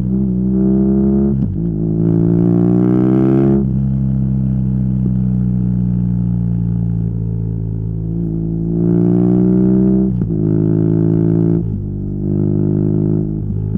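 BMW R nineT's boxer twin through a Competition Werkes slip-on exhaust, accelerating on the road: the engine note rises in several pulls broken by short dips at the gear changes, with steadier cruising between them.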